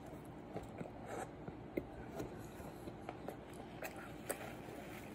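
A person chewing a mouthful of bacon quarter pounder burger with his mouth closed, close to the microphone. There are scattered small clicks and smacks.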